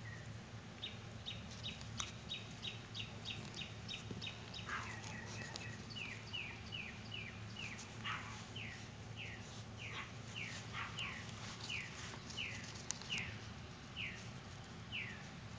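A songbird singing a long series of short, repeated downslurred whistles, quick and high at first, then a little lower and slower, about two a second.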